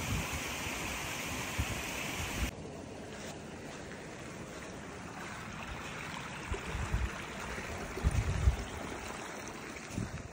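Creek water running with a steady rush. It drops abruptly to a quieter level about two and a half seconds in, and low thumps of wind on the microphone come near the end.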